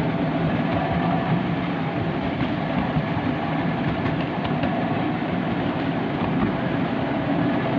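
Miniature railway train running steadily along the track, heard from aboard a carriage: a continuous rumble of wheels on rail and the moving train, with no speech.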